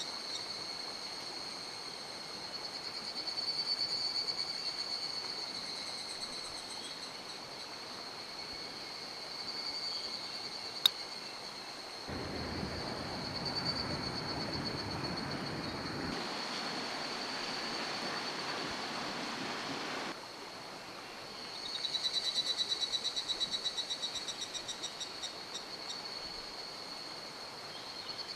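A high-pitched, steady pulsing chorus of small wildlife over the rush of a mountain stream. From about twelve to twenty seconds in, louder rushing water rises sharply and stops just as sharply, and a single sharp click sounds about eleven seconds in.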